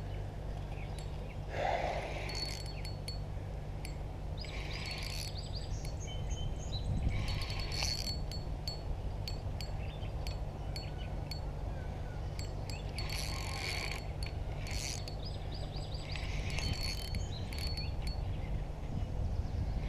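Fishing reel being cranked in short bursts of clicking and whirring every few seconds while fighting a hooked carp, over a steady low hum.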